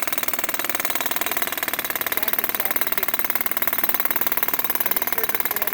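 Jackhammer running steadily, a rapid, even beat of strokes.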